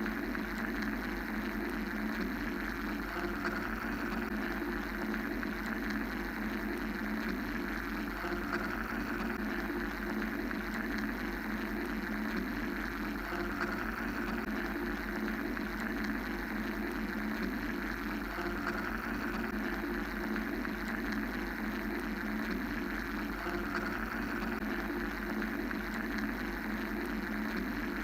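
Steady mechanical white-noise drone: an even hiss over a low hum and rumble, with a higher band that swells and fades slowly every several seconds.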